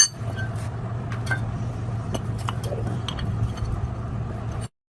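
A steady low machine hum with scattered light metallic clinks; the sound cuts off abruptly about four and a half seconds in.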